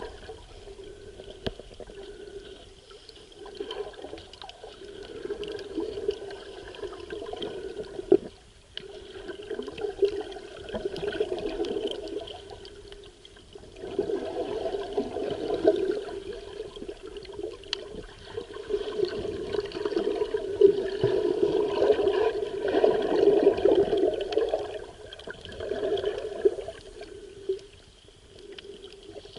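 Sea water recorded with the camera in the water: a muffled rush that swells and fades every few seconds with the wave surge, with scattered sharp clicks.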